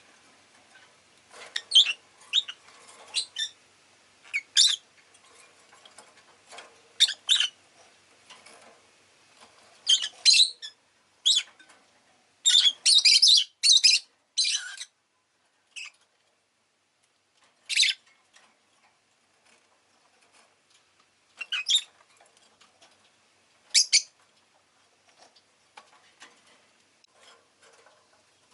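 Rosy-faced lovebird giving short, sharp, high chirps at irregular intervals, with a quick run of calls about halfway through and a quiet stretch after it.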